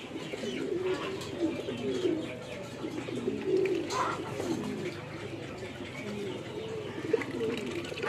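Farmyard birds calling: many overlapping low, wavering calls, with a brief higher call about halfway through.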